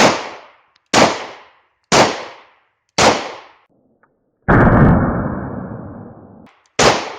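German P.08 Luger pistol firing 9mm rounds, about one shot a second, with a gap near the middle. After one shot there is a loud noise lasting about two seconds, then another shot near the end.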